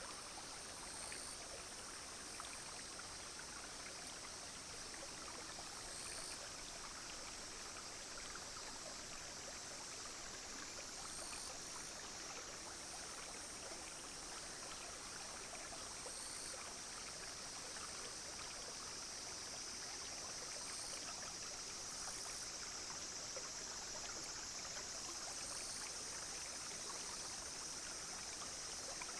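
A small clear stream babbling steadily over stones, with cicadas and other insects buzzing in a high, steady drone that dips briefly every few seconds.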